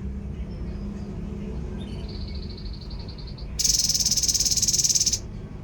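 A calling animal trilling: a fainter rapid buzzing trill about two seconds in, then a loud, rapid pulsed trill lasting about a second and a half that cuts off suddenly, over a low steady hum.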